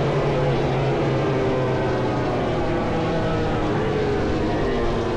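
MotoGP race bikes' four-cylinder engines running at high revs around the circuit, a steady dense drone with a few short pitch sweeps as bikes pass and change speed.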